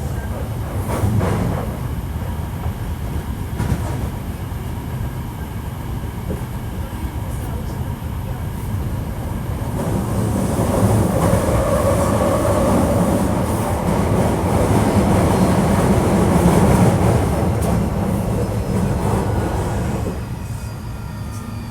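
Running noise of a Hankyu 1300 series electric train heard from inside the car: a continuous rumble of wheels on rail with motor hum. It grows louder about halfway through, then eases near the end as the train slows for the next station. The title marks this train as a car with an unusual running noise.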